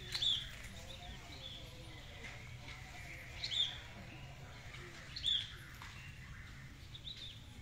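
Bird calling: four short, high chirps that drop in pitch, spaced about two seconds apart, the last one fainter, over a faint steady low hum.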